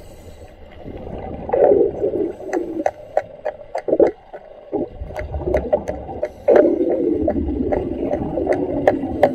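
Underwater sound around a commercial diver: uneven gurgling surges of exhaust bubbles, with many sharp irregular clicks scattered through.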